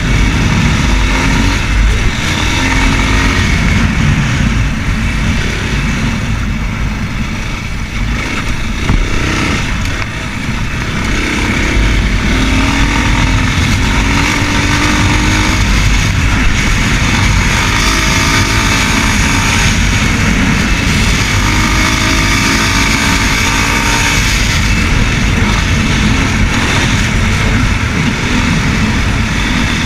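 Racer Panther 300 enduro motorcycle engine running under way, with a heavy low rumble of wind on the microphone. The engine eases off about eight to ten seconds in, then climbs in pitch as it accelerates again, and rises once more later on.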